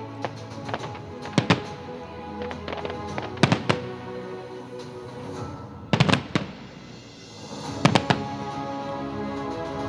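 Fireworks salute shells bursting: sharp bangs in close pairs, about every two seconds, four times, over steady background music.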